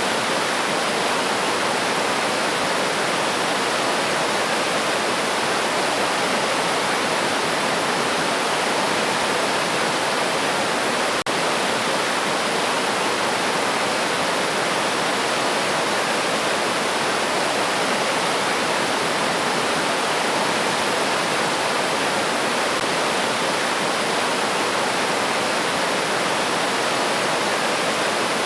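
River stream water rushing over rocks, a steady, even flow.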